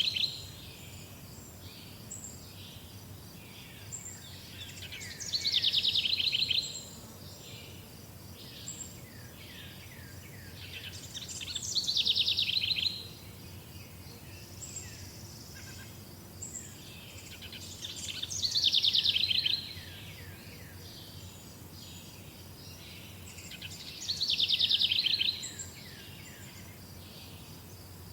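Songbird singing a repeated phrase about every six seconds, each a rapid run of high notes lasting about a second and a half, with fainter short chirps from other birds in between, over a steady low background hum.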